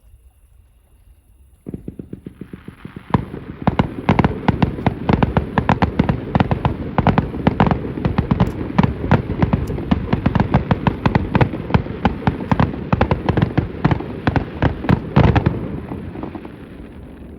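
Aerial fireworks, a starmine barrage heard from a distance: after a brief quiet, a rapid, dense run of shell bursts and reports, several a second, builds up and keeps going before fading near the end.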